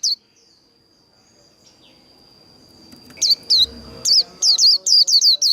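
White-eye singing its 'líu' song: after a pause of about three seconds, a fast run of high, sweeping notes, about four a second, starts up. A faint steady high tone runs through the pause.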